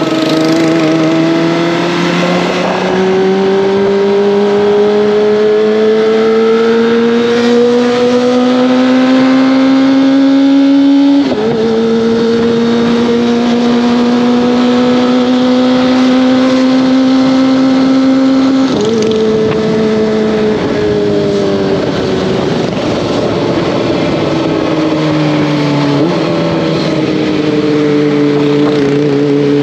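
Kawasaki ZX-25R's 250 cc inline-four engine and exhaust under way. The pitch climbs steadily and drops sharply twice, about a third of the way in and again past the middle, as it shifts up a gear. It then eases off and settles to a steady pitch near the end.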